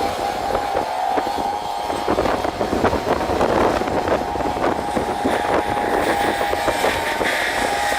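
Heavy machinery working: a steady whine with a run of knocks and clatters, busiest in the middle.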